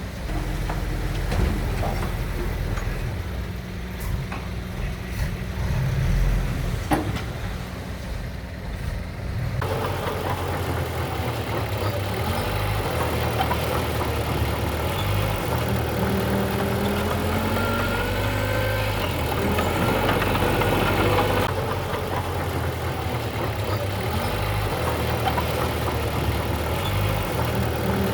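Diesel engine of heavy earthmoving machinery running steadily. About ten seconds in, a louder, rougher noise joins it, with faint whines that rise and fall.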